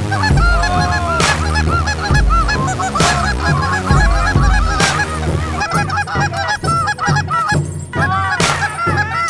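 A flock of geese honking, many overlapping calls at once, over background music with a steady beat.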